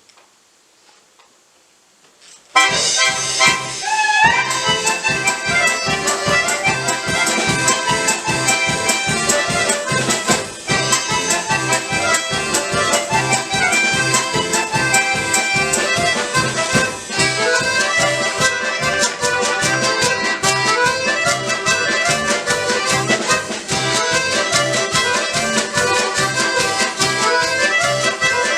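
Bayan (button accordion) orchestra starting to play about two and a half seconds in, after near silence: a lively, full ensemble piece over a steady, regular bass beat.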